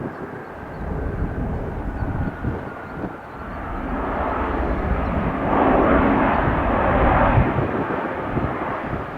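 Jet airliner engine noise: a steady roar that builds, is loudest a little past the middle, and then eases off.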